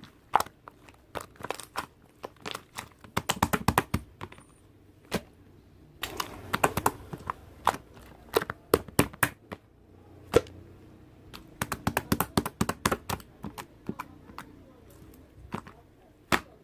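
Slime squeezed and pressed by hand, making irregular sharp clicks and crackling pops, some in quick runs of several.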